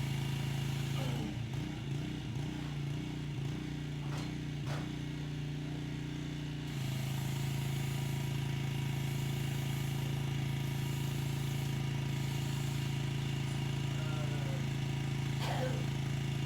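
Pressure washer running: a steady engine drone under the hiss of its spray. About a second in the spray hiss drops away and the engine note shifts, and both come back steady about seven seconds in.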